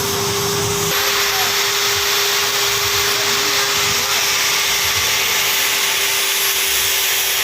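A machine runs steadily with a constant mid-pitched hum under a loud, even hiss that grows brighter about a second in.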